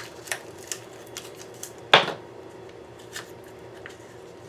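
Light clicks and taps of small hard parts being handled while a firework shell is taken apart, with one sharper knock about two seconds in.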